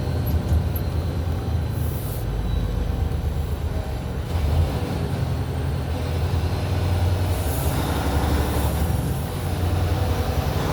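Semi-truck's diesel engine running steadily, heard inside the cab as a continuous low drone with road noise. There is a short hiss about two seconds in and another near the end.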